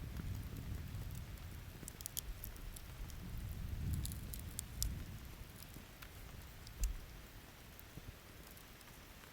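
Campfire crackling with scattered sharp pops, over soft rain and a low rolling rumble of distant thunder. The thunder swells about four seconds in and then fades away.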